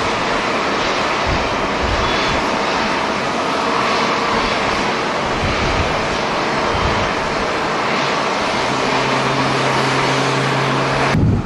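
Jet airliner engines running, a steady loud rush with faint whining tones in it, joined by a low steady hum about nine seconds in. Uneven low buffeting from strong wind on the microphone runs underneath, and the sound changes abruptly just before the end.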